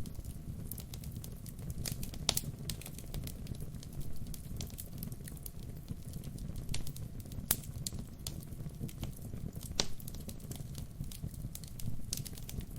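Wood fire burning with a steady low rumble and irregular crackles, a few sharper pops and snaps among them.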